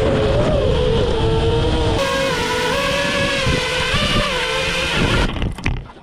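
FPV drone's electric motors and propellers whining, the pitch rising and falling with throttle, with wind rush; the sound cuts off a little after five seconds in.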